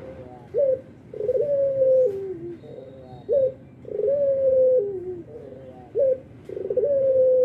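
An albino Barbary dove (puter) cooing repeatedly: a long coo that steps down in pitch, followed by short rising coos, the phrase coming round about every two and a half seconds.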